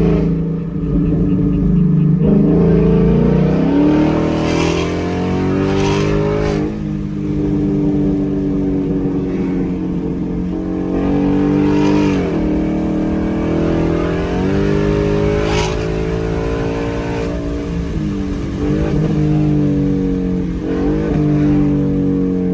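2018 Ford Mustang GT's 5.0-litre V8 with no mufflers and a resonator delete, accelerating hard through the gears. The engine note climbs and then drops sharply at each upshift, with a short crack at each shift.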